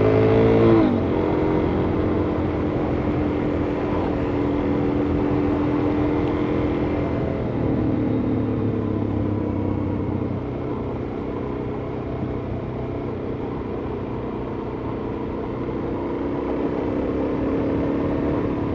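Suzuki DR-Z400S's single-cylinder four-stroke engine pulling under way: it revs up in the first second, then runs at a steady pitch, changes pitch about seven seconds in, and rises slowly again near the end.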